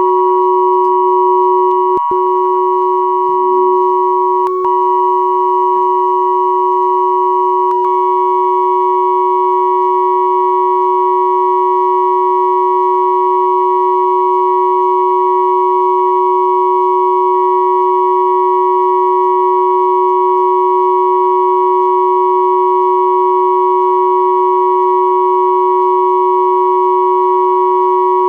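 Three pure sine tones at 369, 963 and 1111 Hz sounding together as one steady, unchanging electronic drone, with two tiny clicks about two and four and a half seconds in.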